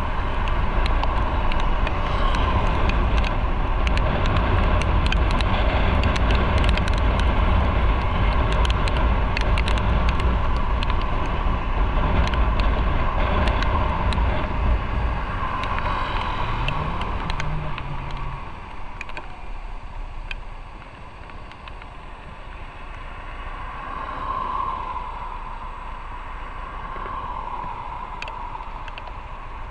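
Motorcycle riding along the road: engine running under heavy wind and road rush. About two-thirds of the way through, the noise falls away sharply and the engine and wind go on much quieter, as the bike slows.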